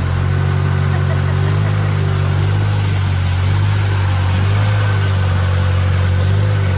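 Boat engine running at a steady pitch, a constant low drone with an even hiss over it.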